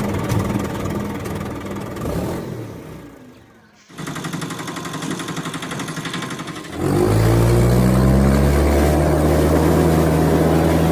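Engine running with a deep drone that fades out about three seconds in. A fast rattling follows, then about seven seconds in the engine comes up loud, its pitch rising briefly before holding steady.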